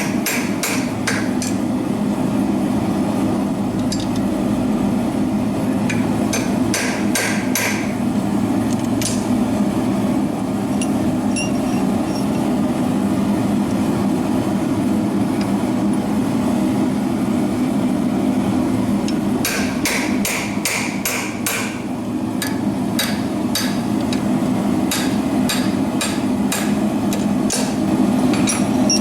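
Hand hammer striking hot iron on the anvil while forging nails, in quick runs of sharp blows: a handful at the start, a few more around six to nine seconds in, then a steady run of strikes from about twenty seconds on. A steady low drone runs underneath.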